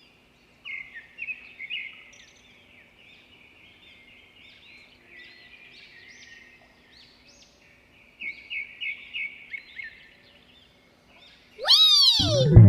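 Small bird chirping in two quick runs of short, repeated chirps, with fainter chirps between them. Near the end a loud whistle falls steeply in pitch.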